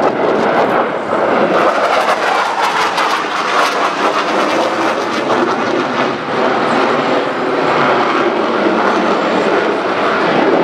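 Dassault Rafale C fighter jet flying its display, its twin Snecma M88 turbofan engines loud and steady, with brief slight dips in level.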